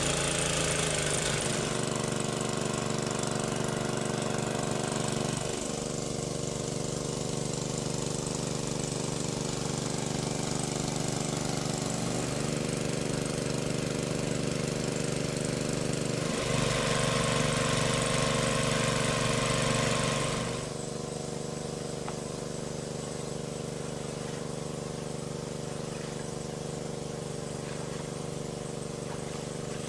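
A small engine running steadily. It grows louder and brighter about 16 seconds in, then drops back to a quieter, steady run about 21 seconds in.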